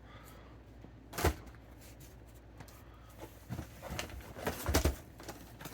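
Cardboard fireworks packaging being handled: a sharp knock about a second in, then rustling and a few soft knocks as boxes are moved and set down.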